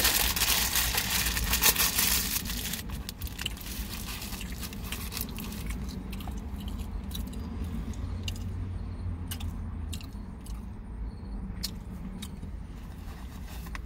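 A man chewing a mouthful of greasy bagel sandwich with his mouth close to the microphone, with scattered wet clicks and smacks. The noise is loudest for the first couple of seconds, then softer.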